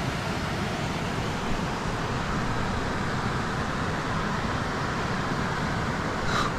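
Steady rushing of a creek's flowing water, an even hiss that does not change.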